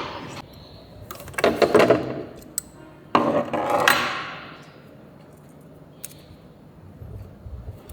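Metal clattering and rattling in two bursts, each about a second long, from tools and parts being handled during engine work, with a few sharp clicks.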